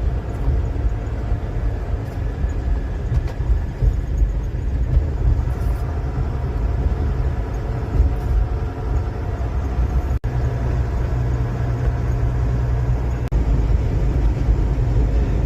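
Steady low rumble of a car driving along the highway, engine and tyre noise, with two very brief dropouts partway through.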